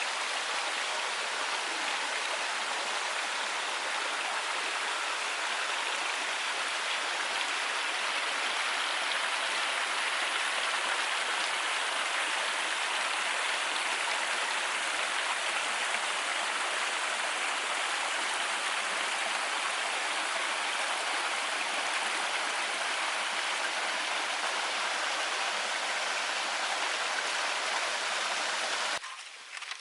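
Steady rushing of a mountain stream, an even hiss of flowing water that cuts off abruptly near the end.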